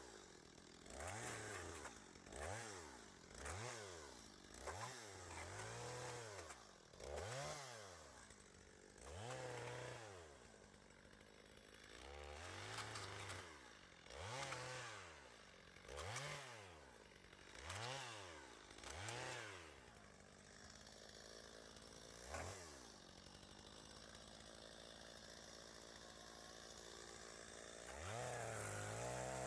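Chainsaw revving up and down repeatedly, about a dozen throttle bursts each rising and falling in pitch over roughly twenty seconds. It then runs more steadily near the end. The sound is faint.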